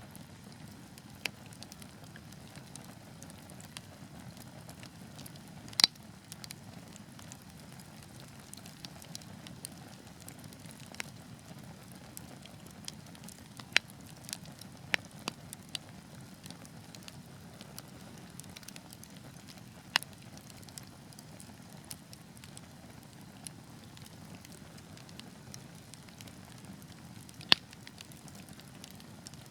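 Wood fire burning with a steady low hiss and scattered sharp crackles and pops from the logs, a few louder pops standing out about six, fourteen, twenty and twenty-seven seconds in.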